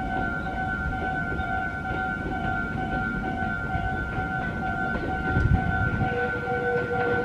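Railway level-crossing warning alarm ringing with an even, repeating electronic tone, over the low rumble of an approaching train.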